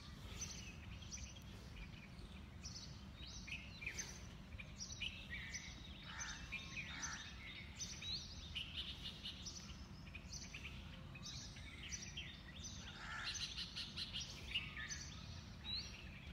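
Small birds chirping and trilling on and off throughout, several calls overlapping, over a steady low background rumble.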